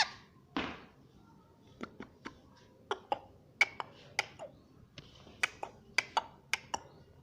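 Ring-necked parrot making a loose run of soft, sharp clicks and brief chirps, about fifteen in all, spaced irregularly.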